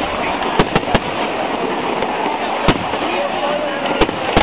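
Fireworks shells bursting in sharp, irregular bangs: three in quick succession just after the start, one near the middle and two near the end. A steady wash of crowd voices runs underneath.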